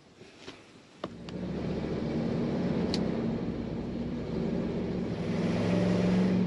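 Big-block Chevy V8 truck engine starting up about a second in, then running steadily.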